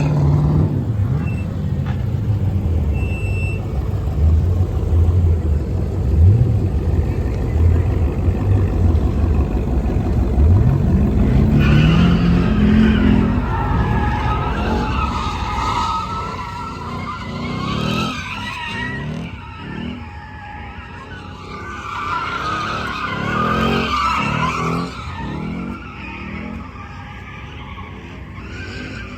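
A car engine revving, its pitch climbing sharply about eleven seconds in; then tyres squealing in a long, wavering screech over the engine for most of the rest.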